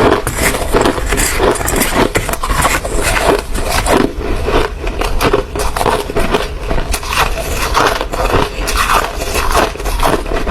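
Hard ice being bitten and chewed up close to the microphone: a steady run of dense, irregular crunches with no pause.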